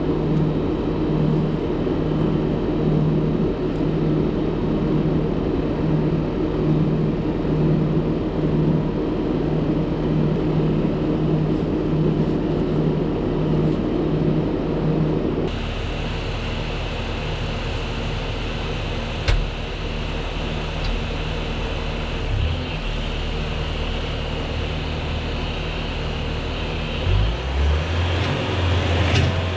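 Bobcat T595 compact track loader's engine running steadily. About halfway through the sound changes abruptly to a different steady hum, with a single click a few seconds later. Near the end the engine note rises.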